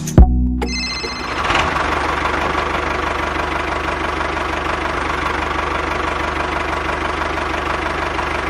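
A loud click, then about a second in an engine starts running steadily with a fast, even knock, like a diesel at idle.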